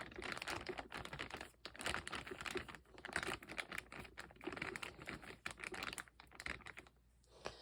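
A plastic bag crinkling and rustling as it is handled and sealed around a doll, a dense run of irregular crackles that stops about seven seconds in.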